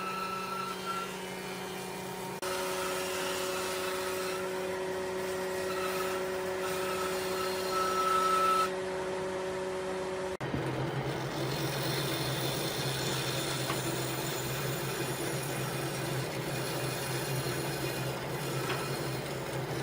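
Woodworking power tools running with a steady machine hum, the sound changing abruptly three times as one machine gives way to another.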